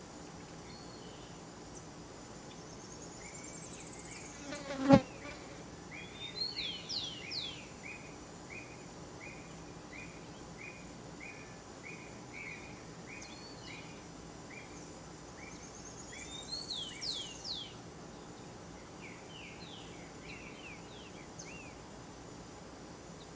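Wild birds calling in forest: a long series of short, down-slurred whistled notes, about two a second, with higher swooping notes and rising trills before and after. A single sharp knock about five seconds in is the loudest sound.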